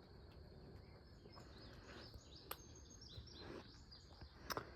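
Near silence: faint outdoor ambience with a few faint bird chirps, and two sharp ticks, one about halfway through and a louder one near the end.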